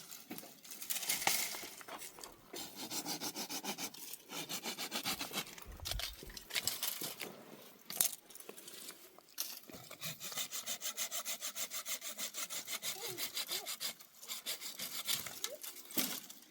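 Rapid rhythmic rasping strokes, about five a second, in runs of a few seconds broken by short pauses.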